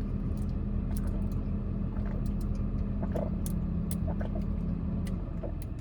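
Car engine idling with a steady low hum, scattered with small clicks; the hum stops about five seconds in.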